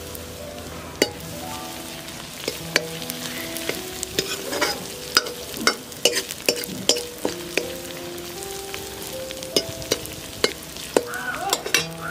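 Onions and ginger frying in ghee in a steel kadhai, sizzling, while a steel ladle stirs them and knocks against the pan in many sharp clinks. Soft instrumental music plays underneath.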